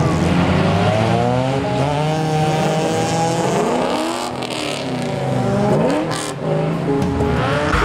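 Drift cars' engines revving hard, their pitch rising and falling over and over as they hold slides, with more than one engine heard at once.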